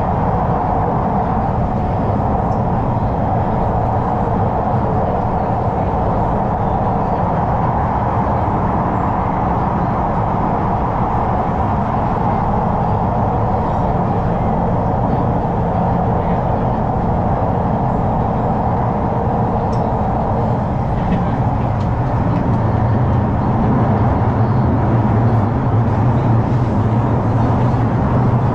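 Singapore MRT train running: a steady rumble and hum that grows a little louder over the last few seconds.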